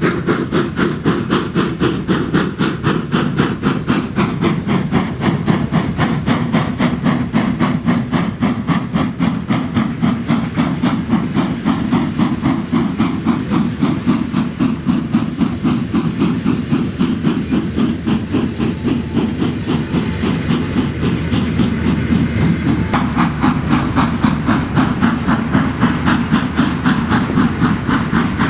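Steam locomotive working under way, its exhaust beating in a rapid, even rhythm over a steady hiss of steam.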